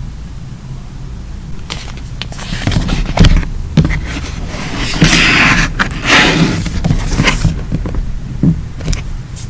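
Paper being handled at close range: a run of rustles, scrapes and light taps from about two seconds in until past seven seconds, over a steady low hum.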